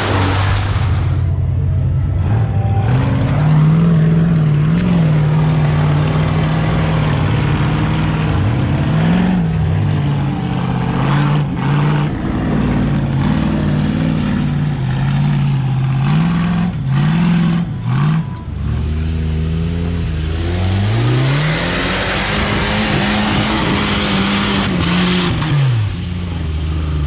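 Off-road rig's engine revving up and down repeatedly under load, working over rough ground. A rushing noise rises over it for a few seconds near the end.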